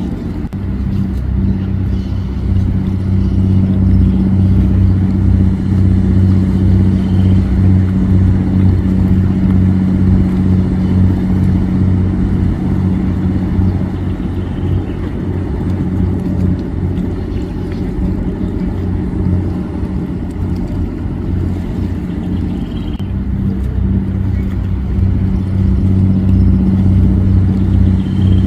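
Motorboat engine running steadily under way, a continuous low drone with a clear pitch. It eases a little in the middle and picks up again near the end.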